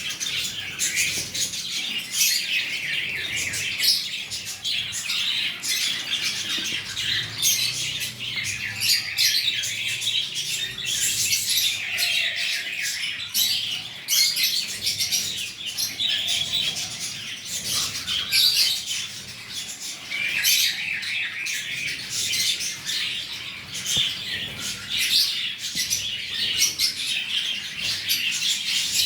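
Cockatiel chirping and squawking almost without pause, mixed with many short, sharp clicks.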